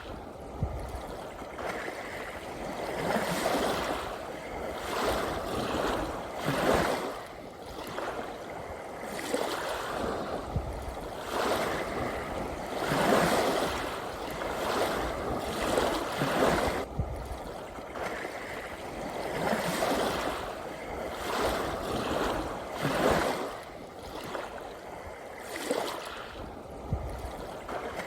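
Ocean waves washing ashore, a continuous rushing of water that swells into a fresh surge every two or three seconds.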